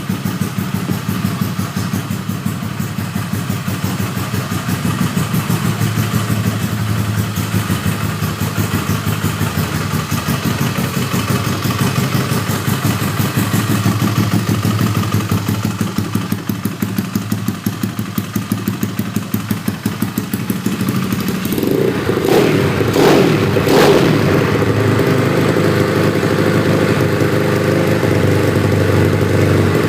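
Yamaha Mio scooter's single-cylinder engine, enlarged to 200 cc, running with an even pulsing beat. About 22 seconds in it picks up to a louder, fuller run, with a few sharp knocks, and stays there.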